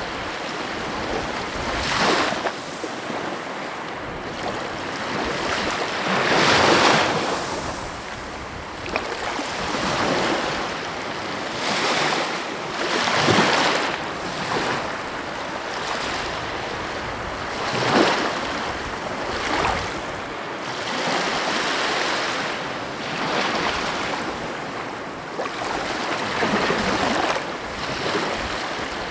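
Sea waves breaking and washing on a shore, a continuous surf that swells with a new wave every four to five seconds.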